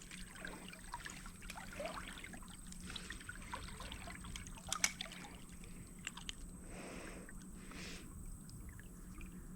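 Shallow creek water trickling, with scattered small clicks and splashes.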